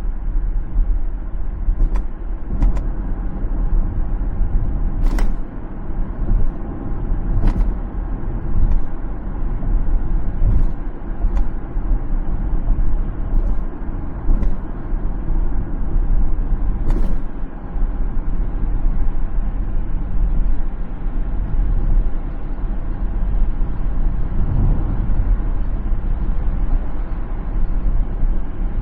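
Car driving along a city road: steady low road and tyre rumble, with a few short sharp knocks scattered through it.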